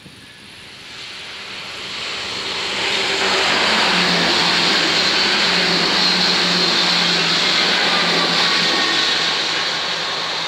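NS SGMm Sprinter electric multiple unit passing over a level crossing: a rush of wheels on rail that builds over the first few seconds, stays loud through the middle with a steady low hum, and fades toward the end.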